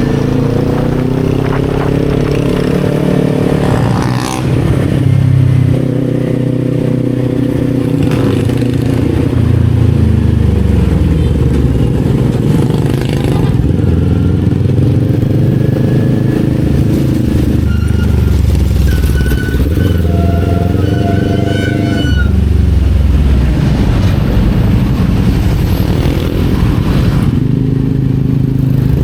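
Kawasaki Z400's parallel-twin engine pulling under way, its pitch climbing and then dropping sharply at each of several gear shifts, with one stretch of falling revs as it slows.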